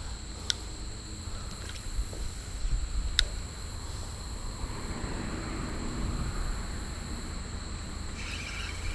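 Creek ambience heard from a kayak: a low wind rumble on the microphone under a steady high drone of insects, with two sharp clicks, one about half a second in and one about three seconds in.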